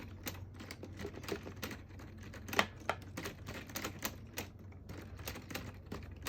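Irregular sharp clicks and clatter of plastic LEGO pieces, two or three a second, with one louder click about two and a half seconds in, over a steady low hum.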